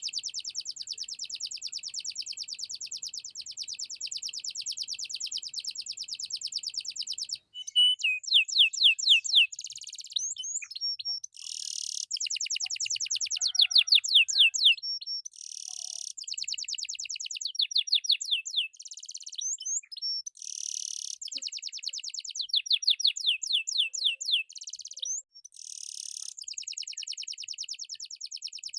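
Domestic canary singing a long, continuous song of fast rolling trills. Louder runs of slower, swooping notes break in about 8, 14 and 23 seconds in.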